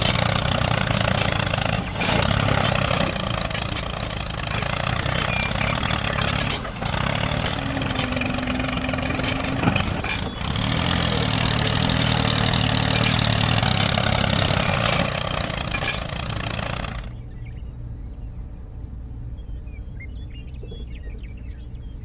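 Mini tractor engine running steadily, then cutting off suddenly about seventeen seconds in, leaving a much quieter background.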